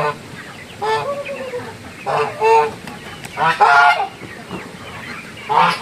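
A flock of domestic laying ducks quacking: loud nasal calls, singly and in short runs, every second or so.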